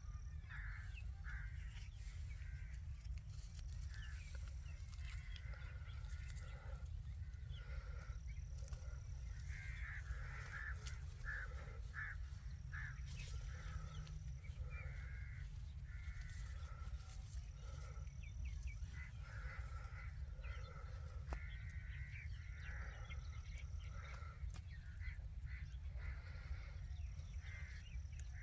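Indian ringneck parrots calling: a string of short, harsh squawks repeating throughout, over a steady low rumble.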